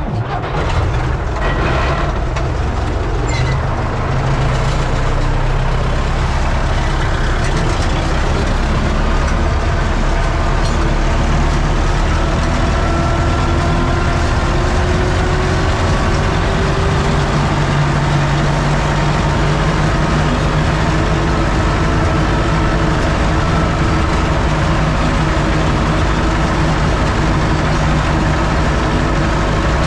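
UTB Universal 650 tractor's four-cylinder diesel engine running steadily.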